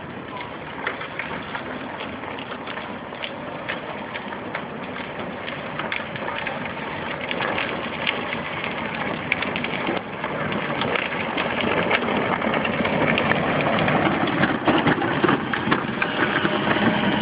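A car engine running under a dense, crackling noise that grows steadily louder.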